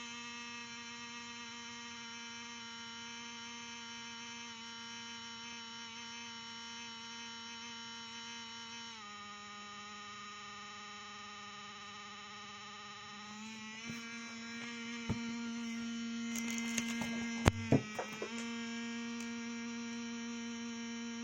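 Lenovo ThinkPad T450 laptop giving off a steady, pitched humming whine with many overtones. The pitch drops a little under halfway through and climbs back a few seconds later, and a cluster of sharp clicks and knocks comes after that. The owner cannot tell whether the noise is from the cooling fan or is coil whine.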